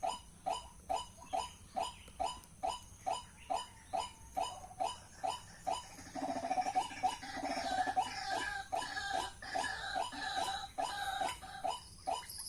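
White-breasted waterhen calling: short repeated notes, about three a second. From about six seconds in, a louder, more jumbled stretch of calling that lasts several seconds before the steady notes return.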